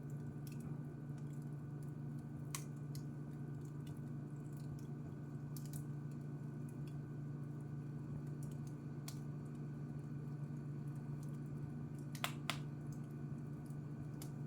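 Wood fire crackling, with scattered small pops over a steady low hum, and two sharper pops in quick succession about twelve seconds in.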